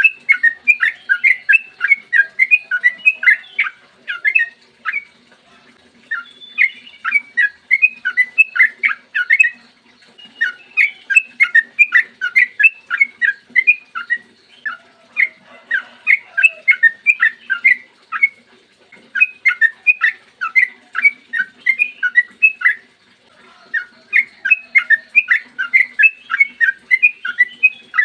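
Yellow-vented bulbul (trucukan) singing long, rapid runs of sharp chattering notes, several notes a second, in bursts of two to four seconds with brief pauses between them.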